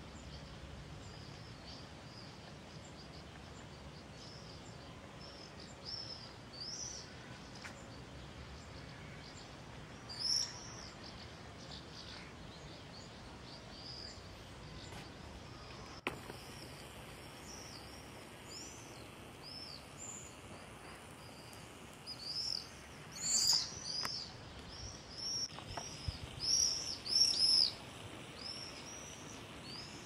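A flock of small birds calling: many short, high chirps over a faint steady background hiss, scattered at first and growing busier and louder in the last third.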